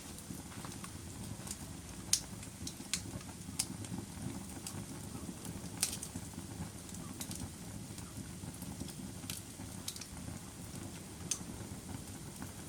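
Wood fire burning in a fireplace: a steady low rumble of flames with irregular sharp crackles and pops from the burning logs, about one every second.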